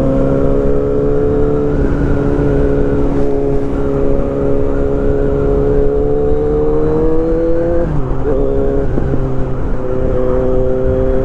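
Kawasaki Z900's inline-four engine under way, its pitch climbing slowly as the bike gathers speed, then dropping abruptly with a gear change about eight seconds in before running steady again.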